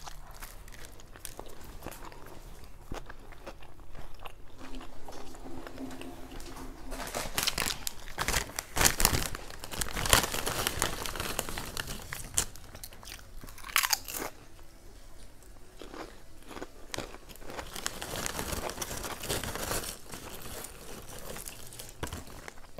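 A person chewing a mouthful of toasted sub sandwich close to a clip-on microphone, with wet mouth sounds and bread crust crunching. The crunches come in a loud flurry around 7 to 10 seconds in and once more sharply near 14 seconds.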